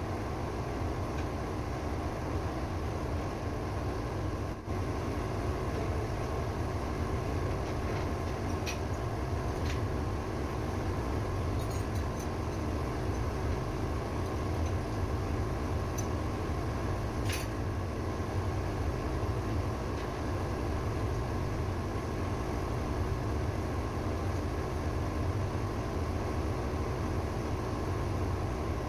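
Ship's auxiliary engine running at a steady speed, with a few faint clicks.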